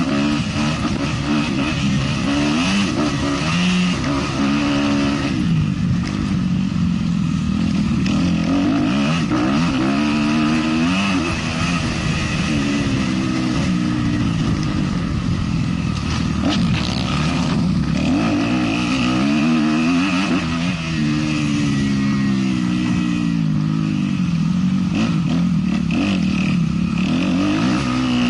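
450cc four-stroke motocross bike engine revving hard under race load, its pitch climbing and dropping again and again as the throttle is worked and gears change.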